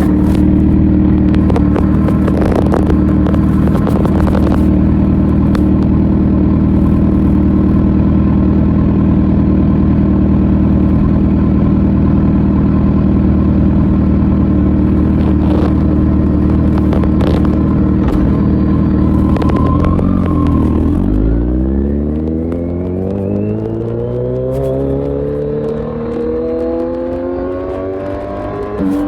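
Kawasaki Z900 inline-four with an Akrapovic full exhaust system running at a steady engine speed under way. About 20 s in the revs drop sharply, then climb steadily as the bike accelerates through a gear, and drop again right at the end as it shifts up.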